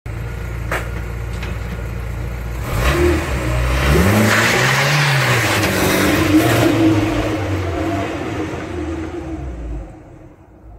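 Car engine running steadily, then revving up about three seconds in; the pitch climbs and falls back, and the sound swells and then fades away near the end.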